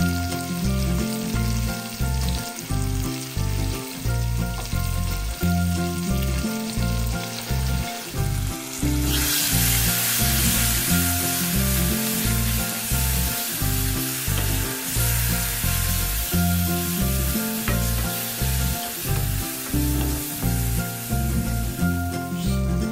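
Vegetables and spices frying in oil in a stainless steel pan, sizzling; about nine seconds in the sizzle turns louder and brighter as the mix is stirred with a wooden spatula. Background music with a steady beat plays throughout.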